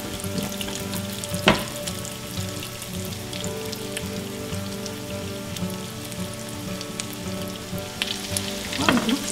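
Breaded pork schnitzels frying in plenty of hot olive oil in a nonstick pan: a steady sizzle with fine crackling. A single sharp click about a second and a half in.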